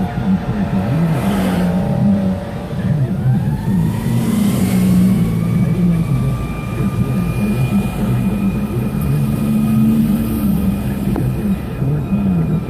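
Deep, steady roar of a burning natural gas line, a jet-engine-like rumble. About two and a half seconds in, a whine rises and then holds steady until near the end.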